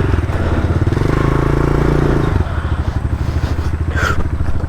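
Dirt bike engine running under throttle from the rider's position, then easing off about two and a half seconds in to a lower, chugging note. A brief sharp knock about four seconds in.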